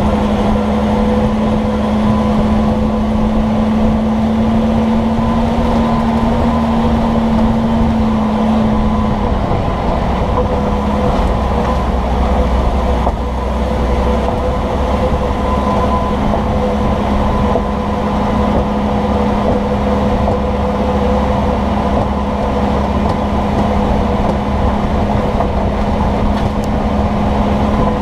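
A vehicle driving, heard from down by its leaf-spring suspension: steady road and tyre noise with a low drone that shifts down in pitch about nine seconds in. No distinct clunk stands out.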